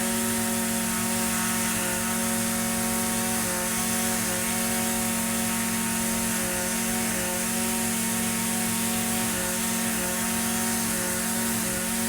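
Echo SRM-2620 string trimmer's two-stroke engine running at a steady speed, with only a slight waver in pitch every few seconds.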